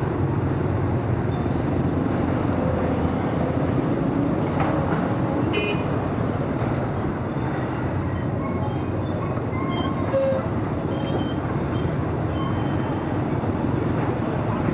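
Honda XR250 single-cylinder four-stroke dirt bike running under way, its engine note buried in steady wind and road noise. A brief horn toot comes about five seconds in.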